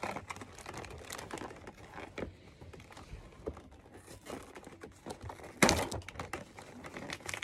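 Crinkling and rustling of toy packaging, with small clicks as hard plastic toy pieces are handled, and one louder rustle about five and a half seconds in.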